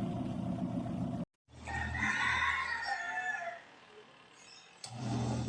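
A rooster crowing once, a call of about two seconds that trails down in pitch. A steady low hum comes before it and returns near the end.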